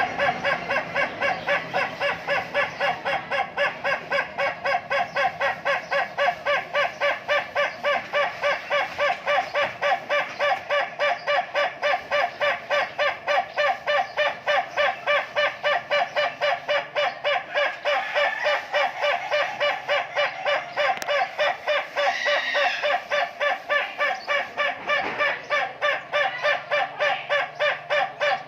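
A fowl giving one very long call of rapid, evenly repeated pitched notes, about three a second, kept up without a break.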